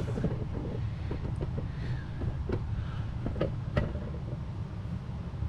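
Steady low rumble with several short, light clicks and knocks as a backup camera, its metal bracket and wiring are handled and the wires are pushed through a hole.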